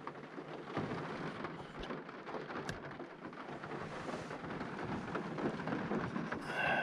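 Rain falling on the roof of a car, heard from inside: a steady hiss of rain with single drops striking sharply here and there.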